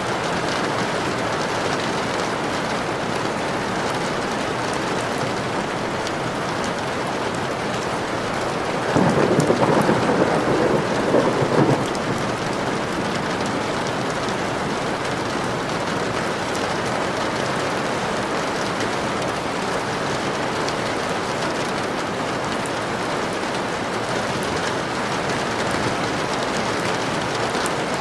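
Steady rain, with one roll of thunder rumbling for about three seconds near the middle.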